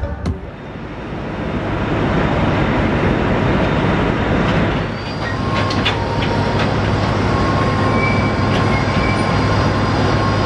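Train running: a steady rumble that builds up over the first couple of seconds, with a few clicks about halfway through and a thin high wheel squeal in the second half.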